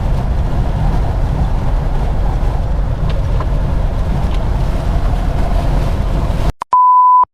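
Steady low rumble of a semi truck driving through a strong windstorm. Near the end it cuts off abruptly, and a single steady beep sounds for about half a second, followed by dead silence.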